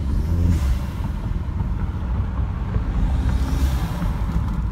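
Kia Soul's 1.6-litre turbocharged four-cylinder running at low revs while driving, heard from inside the cabin through the open driver's window. The car has an aftermarket turbo intake. The sound is a steady low engine rumble with a short rising whine about half a second in, and two brief hissing whooshes, about half a second and three and a half seconds in.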